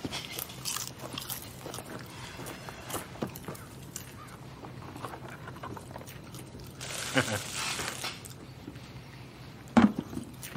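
A person crunching and chewing a crunchy snack eaten by hand from a tub, in many small crunches. About seven seconds in, a louder rush of noise with faint muffled voices lasts about a second, and a sharp knock near the end is the loudest sound.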